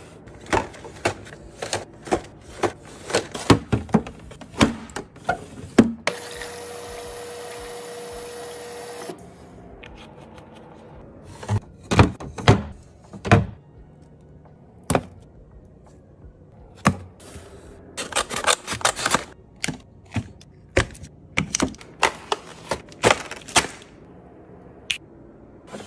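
Rapid clicks, taps and knocks of snack packages and hard plastic containers being handled and set down during snack restocking. About six seconds in there is a three-second stretch of steady hum with one faint tone instead of the clicking.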